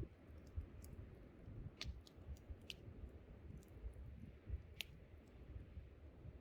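Wood campfire crackling faintly, with a few sharp pops, over a low rumble of wind.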